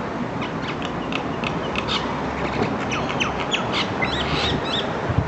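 Birds squawking and chirping in quick short calls, with a few arched calls near the end, over a steady background rush.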